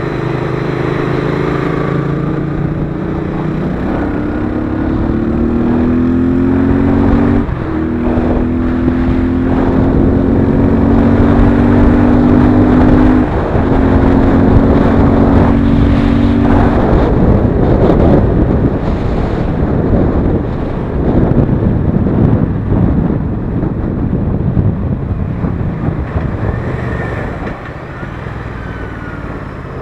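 Royal Enfield Interceptor 650's parallel-twin engine running under way on the road. Its pitch breaks and drops at gear changes a few times in the first half, then it is partly buried under a steady rush of wind on the microphone.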